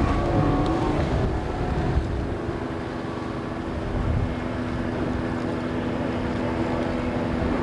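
Outboard motor of an inflatable boat running under way, its pitch wavering briefly in the first second or so, then holding steady over a low rumble.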